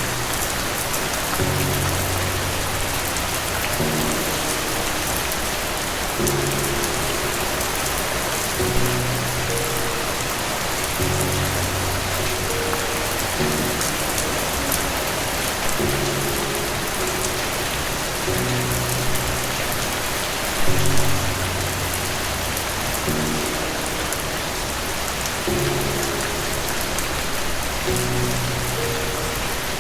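Steady heavy rain hissing, with soft, slow instrumental music of low held notes that change every couple of seconds underneath. There is a brief louder swell about two-thirds of the way through.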